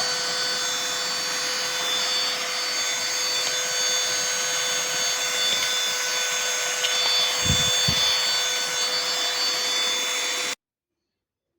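Cordless handheld vacuum cleaner running steadily with a high motor whine, with two low bumps about two-thirds of the way through. It is switched off near the end and cuts out abruptly.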